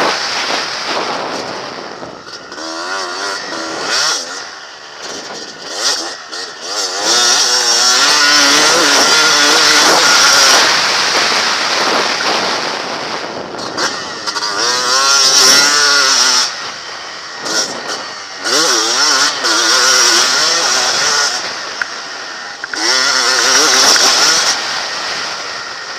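Two-stroke Honda CR250 motocross bike engine being ridden hard, revving up and easing off over and over. Several loud full-throttle stretches are broken by short drops in revs.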